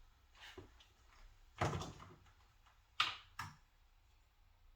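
Handling knocks and clicks of small hard objects: a light tap, then two sharper knocks about a second and a half apart, the second followed quickly by a smaller click.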